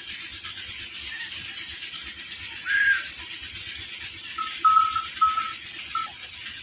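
Birds calling with short arched whistled notes, one about three seconds in and a quick run of four or five shorter notes about a second later, over a steady high fluttering hiss.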